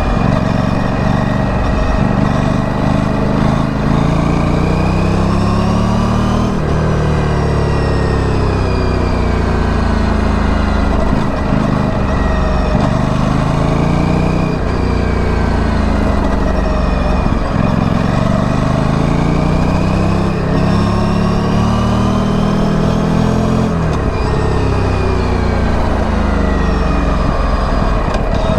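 Aprilia Tuono 457's parallel-twin engine through its stock exhaust, pulling under throttle. The engine pitch climbs and then drops away several times as the rider accelerates and eases off or shifts.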